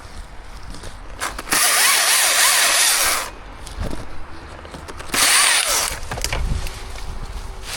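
Chainsaw revving hard twice, for about two seconds from a second and a half in and again for about a second past the five-second mark, dropping back to a low run in between.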